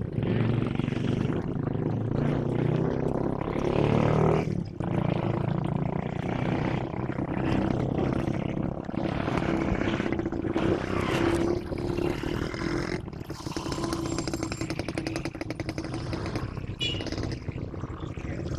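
Diesel locomotive engine running steadily with a low, even hum. It drops a little in loudness about two-thirds of the way through.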